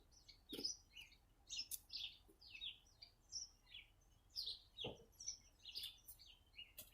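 Small bird chirping: a steady series of short, high chirps, one roughly every half second, with a few faint clicks in between.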